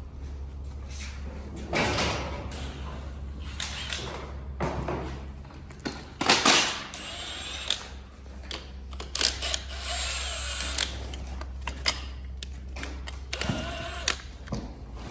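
Clicks, knocks and rattles of parts and hand tools being handled on a motorcycle during assembly, with a steady low hum underneath.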